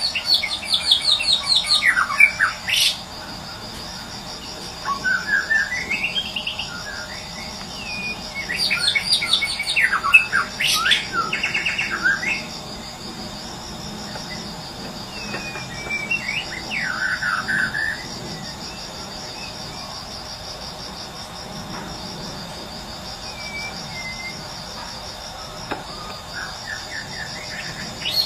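White-rumped shama (murai batu) song, given in several varied bouts of whistles and trills with pauses between them, over a steady high insect trill; the bird falls mostly quiet in the second half. This is a wild-recorded song used to trigger a caged murai batu that has stopped singing.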